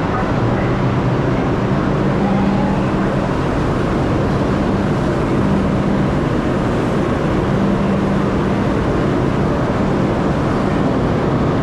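New York City subway train running, heard from inside the car: a steady, loud rumble of wheels on rails, with a low motor hum that comes and goes.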